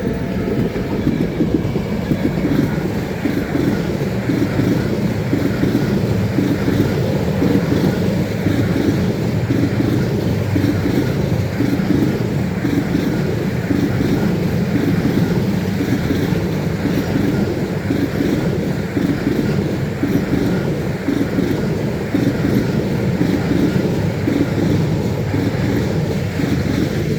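A long rolling-highway freight train of low-floor wagons carrying lorries rolls past at speed. It makes a steady heavy rumble with a regular, repeating clatter of wheelsets over the rail.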